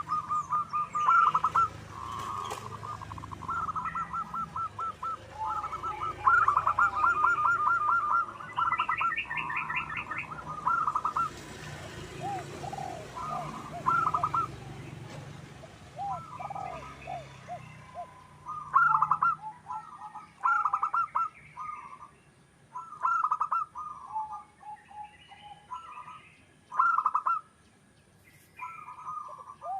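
Zebra doves cooing: phrases of rapid staccato coos on about one pitch, repeated with short gaps, with a few lower, falling coos in the middle and near the end. Other small birds chirp faintly in the background.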